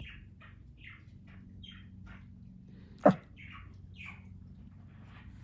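Pomeranian whining in a string of short, high-pitched yips, about two a second. One sharp, much louder sound comes about three seconds in.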